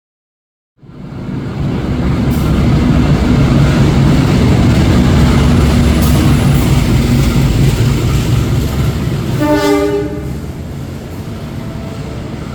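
A diesel-hauled passenger train running past close by, a loud steady rumble of wheels and locomotive engine starting about a second in, with one short horn blast near the end, after which the rumble eases.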